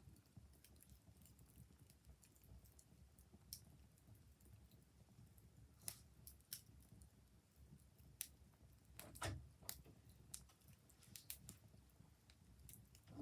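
Wood fire crackling faintly: scattered, irregular pops and snaps over a low rumble, with a louder snap about nine seconds in.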